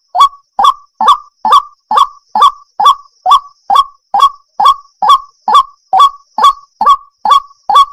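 Waterhen calling: a steady, evenly spaced series of short, sharp notes, a little more than two a second.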